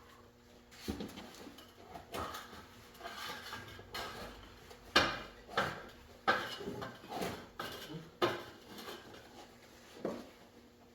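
Irregular metallic clanks and scrapes as a stuck inner tube is worked out of a motorcycle tyre and wheel rim, the loudest knock about five seconds in.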